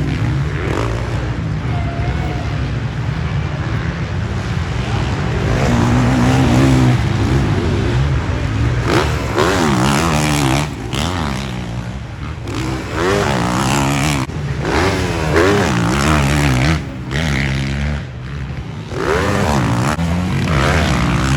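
Motocross dirt bikes racing, their engines revving up and easing off over and over, with several bikes' engine notes overlapping at times.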